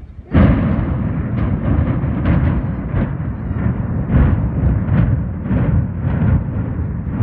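Controlled-demolition explosive charges detonating in rapid sequence to implode high-rise towers: a sudden loud blast, then a continuous low rumble shot through with many sharp cracks.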